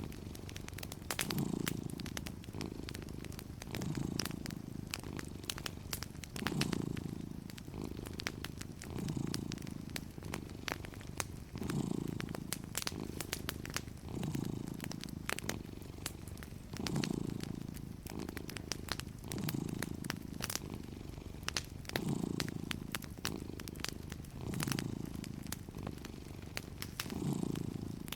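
Domestic cat purring steadily, the purr swelling with each breath about every two and a half seconds, under the scattered sharp pops and crackles of a wood fire.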